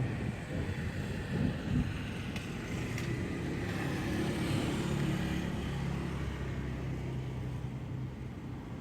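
Rain hissing, with a low rumble of thunder in the first seconds that gives way to the steady hum of a passing vehicle's engine from about halfway through.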